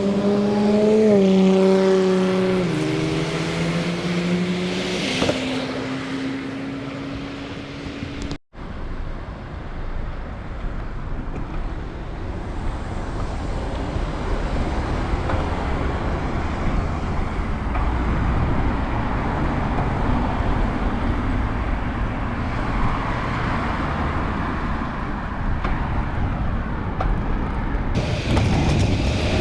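Road traffic heard from a bicycle. In the first few seconds a passing motor vehicle's engine hum falls in pitch in steps and settles on a steady note; after a brief cut it gives way to a steady low rumble of road and wind noise.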